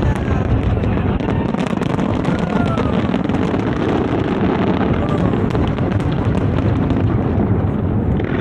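Aerial fireworks going off in a dense, continuous barrage: deep booms running together under constant crackling.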